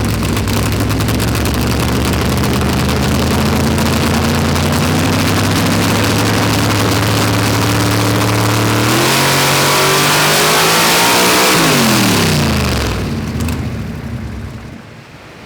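Nitrous Chevy Nova drag-car engine making a loud full-throttle pull on a hub dyno. The revs climb slowly and steadily, jump suddenly about nine seconds in and climb on. Just before twelve seconds in the throttle closes, and the engine winds down and fades.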